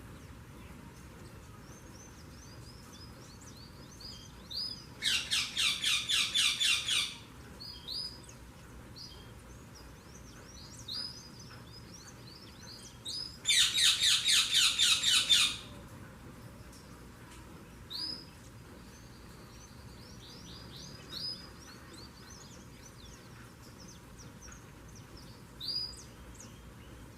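Saffron finch (canário-da-terra) singing: two loud runs of rapid repeated notes, each about two seconds long, with scattered short chirps between them.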